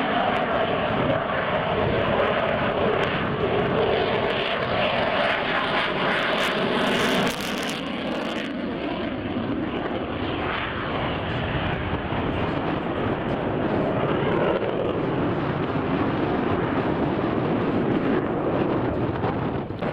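Aircraft engines running loudly as a plane flies by, its engine tones falling slightly in pitch. About seven seconds in the sound steps down abruptly to a steadier, rougher engine noise with no clear tones.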